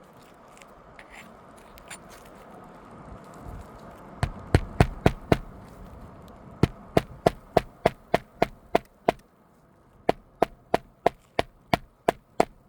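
A hammer driving roofing nails through a replacement asphalt shingle: about four seconds in, a quick run of about five sharp strikes, then two longer runs of about nine strikes each, some three to four a second, each with a short ringing note.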